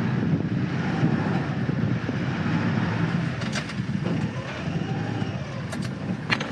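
Sailboat's inboard diesel engine running, a steady, rough low rumble, with a few short knocks after the middle.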